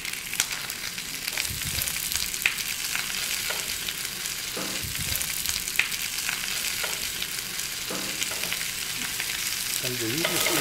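Halved bok choy sizzling in hot oil and butter in a frying pan: a steady hiss with scattered crackles and pops.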